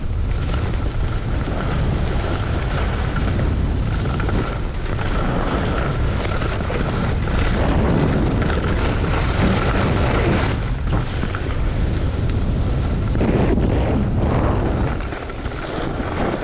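Wind buffeting the microphone of a skier's camera during a downhill run: a loud, steady, rumbling rush.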